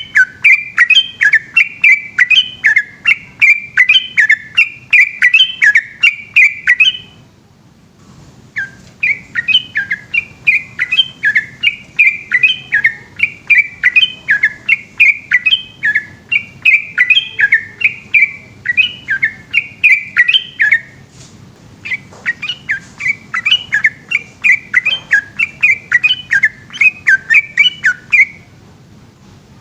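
Yellow-vented bulbul (trucukan) singing loudly in long, rapid strings of repeated chirping notes, three runs broken by short pauses.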